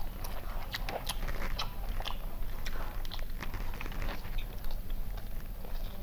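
Chewing and biting on chicken biryani: scattered small wet clicks and crunches, over a steady low hum.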